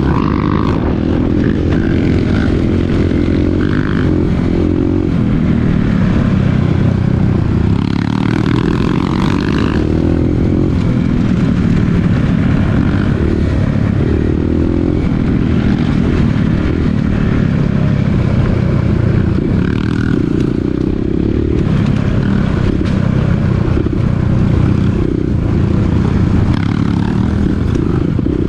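Dirt bike engine running while riding, its pitch shifting up and down with the throttle.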